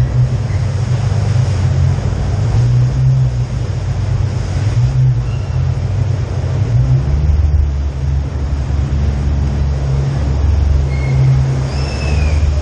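Jeep 4x4's engine running with a loud, steady low rumble, its pitch settling lower about seven seconds in.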